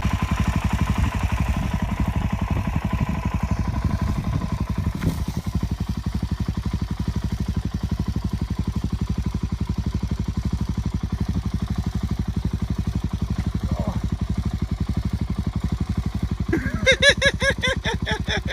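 Suzuki DR-Z400 single-cylinder four-stroke engine running at low, steady revs, its firing pulses coming in an even rapid stream. A brief pitched voice-like sound rises over it near the end.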